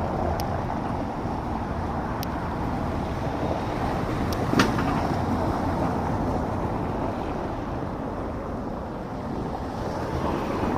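Steady rumble and wind noise of a motorbike on the move, with a few light clicks and one sharper knock about four and a half seconds in.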